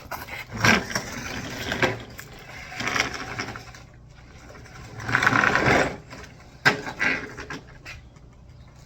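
Walk-behind lawnmower's recoil starter yanked about five times, each pull a short whirring rasp of the cord, with the engine not catching between pulls.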